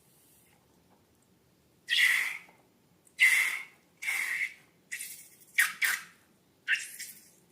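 Balloons being handled for slime-making: about seven short, loud squeaky bursts, starting about two seconds in.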